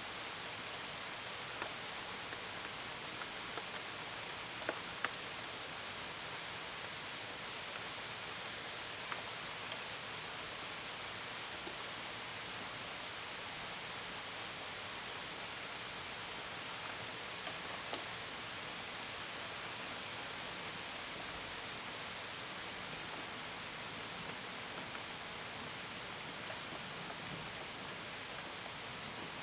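Steady gentle rain, with single drops ticking sharply now and then against a window and gutters. Crickets chirp faintly at a regular pace under the rain.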